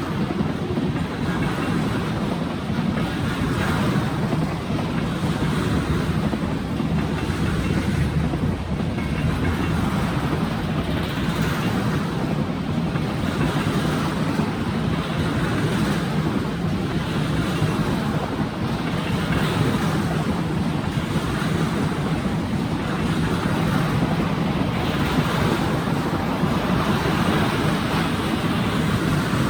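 Freight train cars rolling past, a steady rumble with a rhythmic clatter of wheels over the rails.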